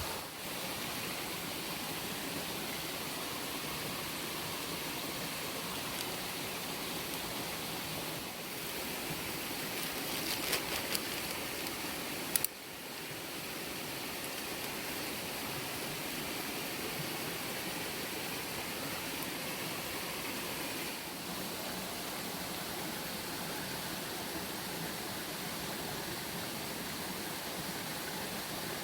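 Steady, even rushing noise, with a few light clicks about ten seconds in and one sharp click a little later.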